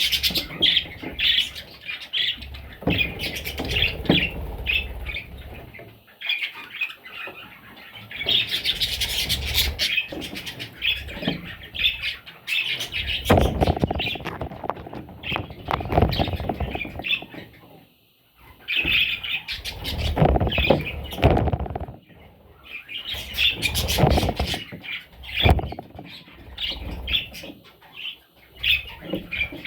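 Budgerigars chirping and squawking in rapid, busy chatter, with brief pauses, over intermittent low bursts of rustling movement.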